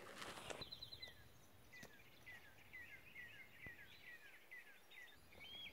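Faint songbird calling: a run of short, high, down-slurred chirps, about two a second, with a few arched notes near the end. A brief rustle of footsteps in dry leaves comes in the first half second.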